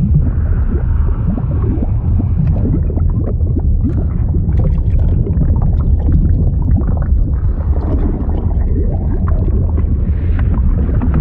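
Liquid sound effect: a deep, steady underwater-like rumble with continual bubbling and gurgling blips over it.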